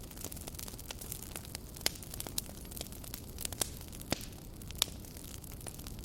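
Wood fire burning, with irregular sharp crackles and pops over a steady low hiss; the loudest pops come about two, four and five seconds in.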